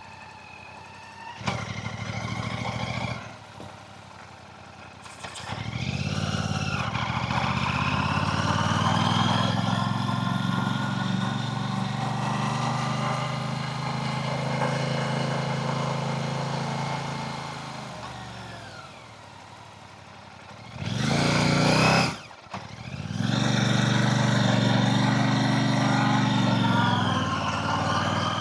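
Royal Enfield Classic 650's parallel-twin engine running in long stretches that swell in, hold steady and fade away, with a short, loud burst about 21 seconds in.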